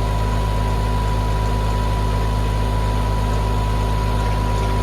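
Mahindra 1626 compact tractor's diesel engine running steadily at PTO speed, driving a three-point post hole digger as the auger bores down into the ground.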